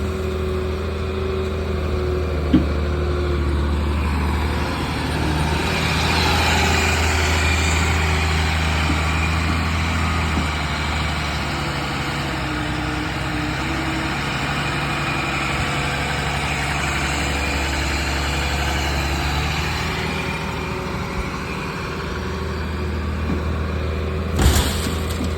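Caterpillar EL300B excavator's diesel engine running steadily, growing louder and fuller for several seconds in the middle before settling back. A single sharp knock comes about two and a half seconds in, and a short clatter comes near the end.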